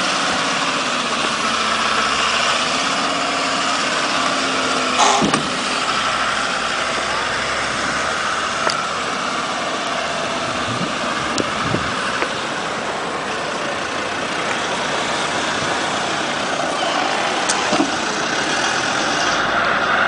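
Land Rover Discovery's engine running steadily at low revs as the vehicle crawls over a rough dirt track. A few short knocks are heard, about five seconds in, near the middle and near the end.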